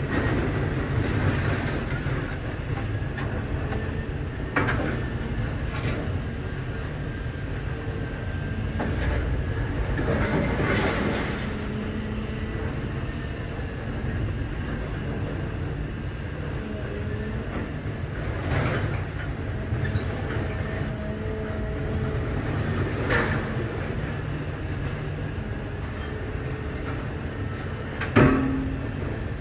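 Idromec T 650 CLS scrap metal shear baler running: a steady heavy machine rumble with a faint whine over it, broken by occasional sharp metal clanks, the loudest near the end.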